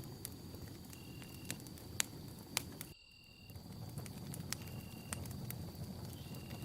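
Wood campfire burning: a steady low rustle of flames with scattered sharp crackles and pops, two louder pops a couple of seconds in. The fire sound dips briefly about halfway through, and a short high note repeats about every second and a half over a faint steady high tone.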